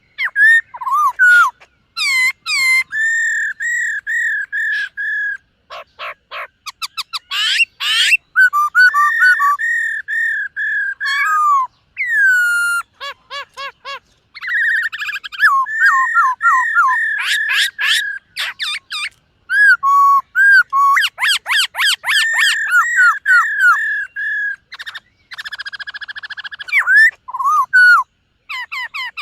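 Black-throated laughingthrush singing a long, varied song: loud clear whistles, quick series of repeated slurred notes, and rapid trills, broken by short pauses.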